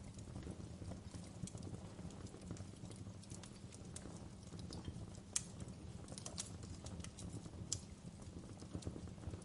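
Wood fire in a fireplace crackling: a steady low rumble of burning logs with irregular sharp pops and snaps, two louder pops about five and a half and seven and a half seconds in.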